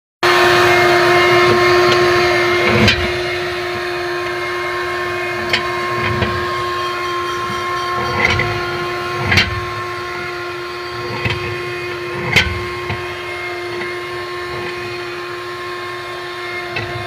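A motor-driven machine running steadily, with a constant humming whine over a hiss and a handful of short knocks or clatters along the way.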